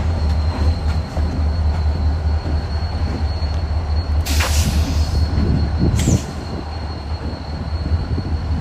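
Wheeling & Lake Erie train rolling with a low rumble and a thin, steady, high wheel squeal. A loud hiss comes a little past four seconds in, and a sharp crack near six seconds.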